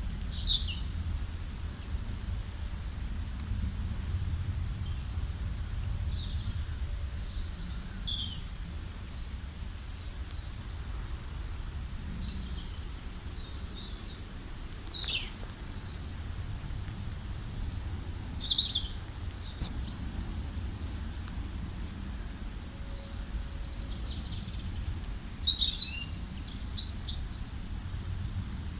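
Several songbirds singing and chirping in short high phrases, over a steady low rumble; the calls are busiest near the start, around a quarter of the way in, at about two thirds and near the end.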